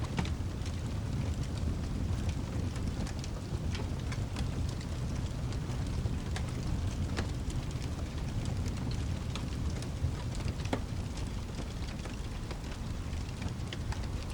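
Layered ambience of rain and a low steady rumble, with a wood fire crackling in irregular sharp pops.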